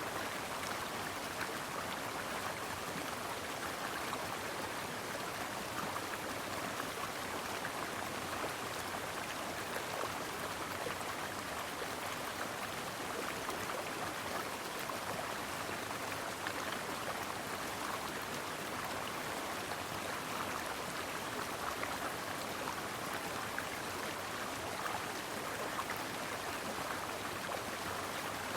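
Mountain stream babbling and splashing steadily over rocks.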